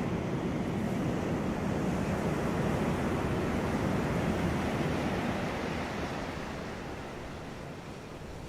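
Sea waves washing on a beach, a steady rushing surf that eases off gradually over the last few seconds.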